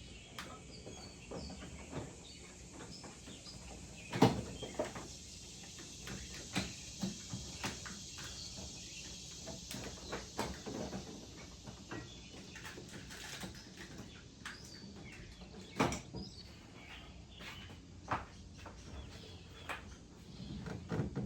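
Scattered clicks and knocks of hand work on car parts, the loudest about four seconds in and another near sixteen seconds, with faint bird chirps in the background.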